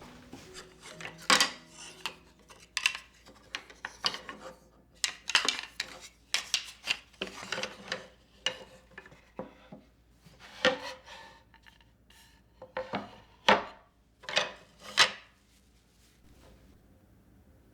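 Hands-on kitchen cleaning: an irregular run of scrubbing and rubbing strokes mixed with knocks and clinks of hard kitchen items being handled, stopping about two seconds before the end.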